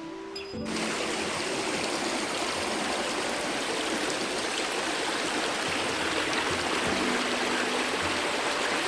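Flowing stream water rushing steadily, cutting in abruptly under half a second in, with faint background music beneath.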